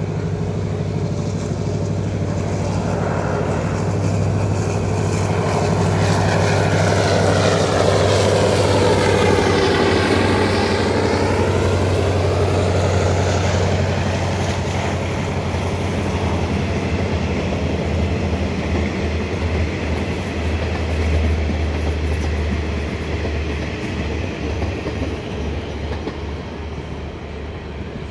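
Diesel-hauled passenger express train passing: the locomotive's steady engine drone with the rumble of the coaches' wheels on the rails, loudest about nine seconds in, then fading as the train moves away.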